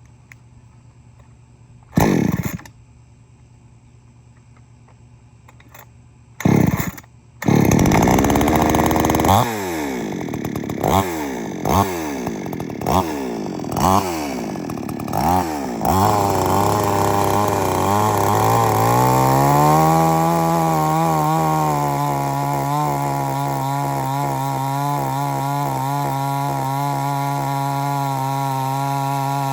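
Two-stroke XtremepowerUS gas chainsaw cold-started: a pull about two seconds in, a second pull that catches it around seven seconds, then a run of quick throttle blips. It then settles into a steady idle, its speed creeping up a little as the engine warms.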